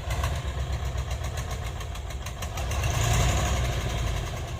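Heavy container truck's diesel engine running with a steady rhythmic knock. It swells louder about three seconds in, then eases back.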